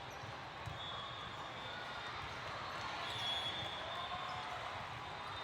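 Indoor gym ambience during volleyball play: short high squeaks of athletic shoes on the court floor over a hum of distant voices in a large hall.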